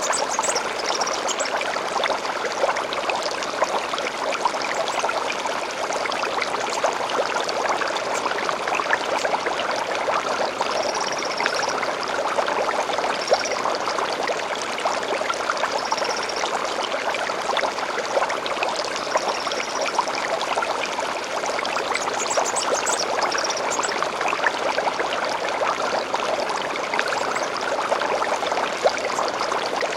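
Small stream flowing and trickling steadily, with short, faint bird calls now and then over the water.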